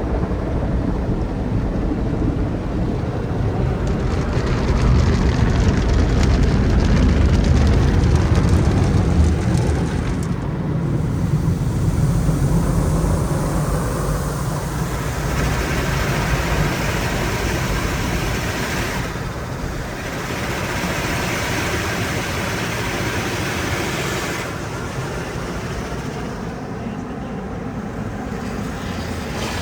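Automatic car wash running: a steady rushing of water spray and machinery that shifts in character several times, deepest and loudest in the first half.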